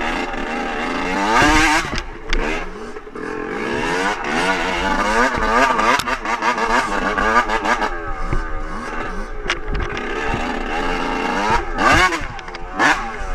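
Dirt bike engine revving up and down over and over, its pitch climbing and dropping in quick surges, with a few short knocks along the way.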